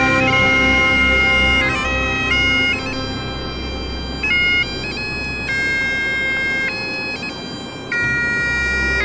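Bagpipes playing a slow tune: long held melody notes, changing every second or two, over a steady drone.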